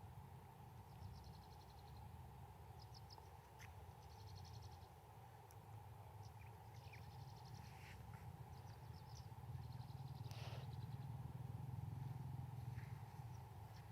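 Small birds chirping faintly, with short chirps and several quick high trills scattered throughout, over a steady low rumble.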